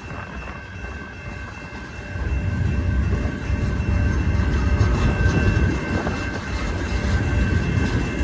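Freight train cars rolling past, steel wheels rumbling on the rails. The rumble grows louder about two seconds in, with a steady high tone running above it.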